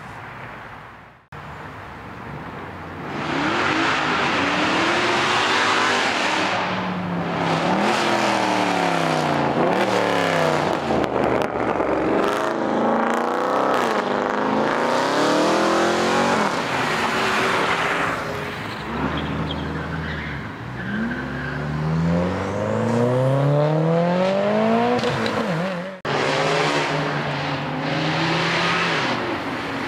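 Performance car engines accelerating hard away, revving up through the gears: the engine note climbs, drops at a shift and climbs again, several times over. The sound swells and fades as cars go by.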